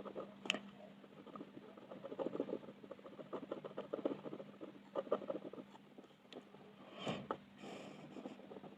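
Colour pencil scratching on paper in quick, short back-and-forth shading strokes, coming in clusters. A single louder rustle about seven seconds in.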